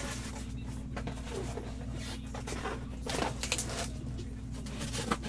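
Steady low hum under scattered light clicks and rustles, which are busiest a little after three seconds in.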